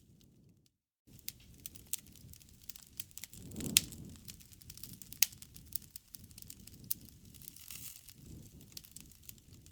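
Wood campfire burning, crackling with irregular sharp pops over a low hiss of the flames, two pops standing out loudest midway. The sound drops out briefly about a second in.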